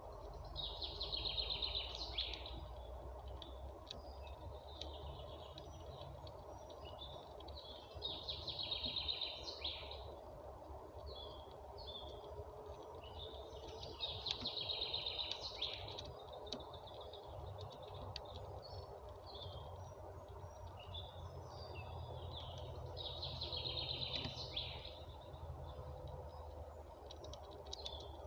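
A songbird singing the same short song phrase four times, spaced six to nine seconds apart, with brief chirps in between, over a steady low background rumble.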